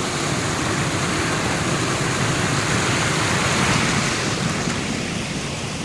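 Steady rush of fast-flowing floodwater in a river newly formed by heavy rain.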